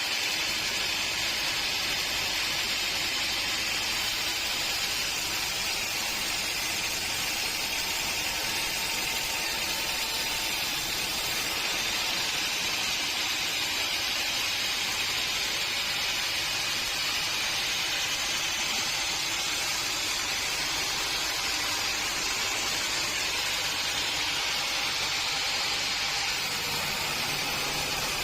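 Sawmill machinery running, a steady hiss with no breaks.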